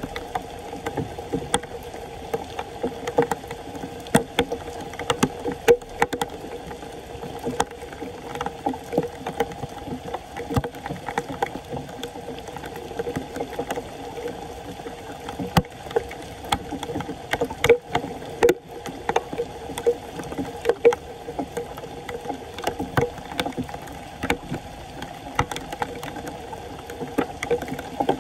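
Water splashing and sloshing irregularly in floodwater, over a steady hum.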